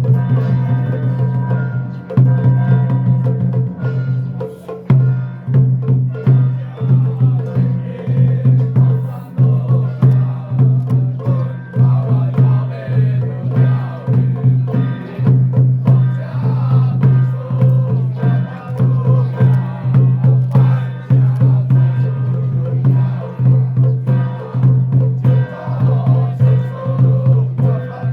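Taoist ritual percussion music: a drum beaten in a steady, regular rhythm with sharp clacking strikes over it.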